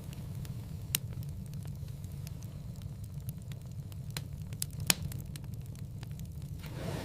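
Wood fire burning in a fireplace: a steady low rumble of flame with scattered small crackles and two sharp pops, about a second in and the louder one near five seconds.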